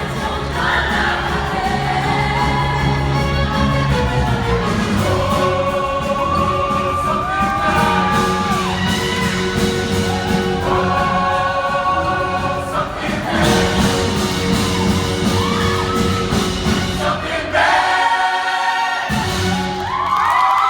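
A group of singers performing a song over music, with held notes and gliding phrases; the music breaks off briefly about nineteen seconds in.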